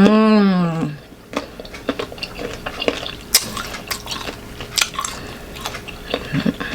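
A short hummed voice sound, its pitch rising then falling, then a run of sharp, irregular crisp clicks and crunches of unripe green mango being chewed close to the microphone.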